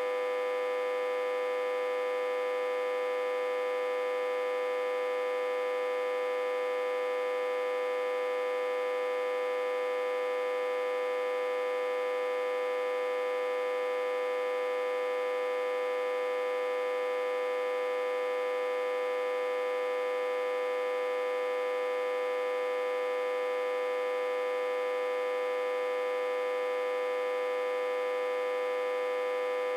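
Autotransformer humming steadily, reverse-connected to a step-down transformer with about 60–80 V input. One strong mid-pitched tone with many overtones above it, unchanging throughout.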